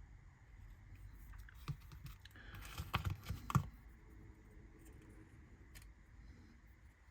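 Small laser-cut kit parts being handled and pressed into place: a few light clicks, then a short run of scraping and clicking about halfway through that ends in a sharper click as the part seats.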